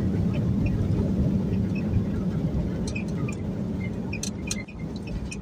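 Steady low rumble of an airliner during landing, slowly easing off, with a few sharp clicks about four seconds in.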